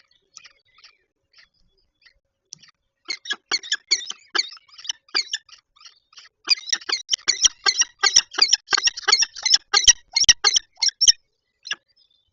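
Peregrine falcon calling from the nest: a few faint calls, then a fast run of short harsh calls of several a second. The run grows louder about halfway through and stops near the end, with a few knocks mixed in.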